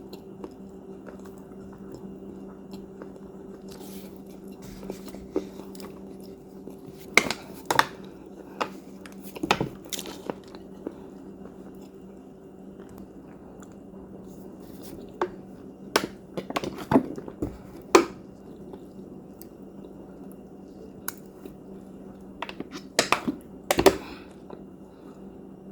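Crunchy cookies being bitten and chewed close to the microphone, in three bouts of sharp crunches with quieter chewing between them. A steady low hum runs underneath.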